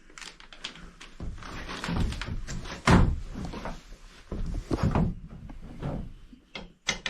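Irregular knocks, thuds and scraping inside a wooden boat's hull as grunge is cleared away from a keel bolt by hand, with the loudest thud about three seconds in.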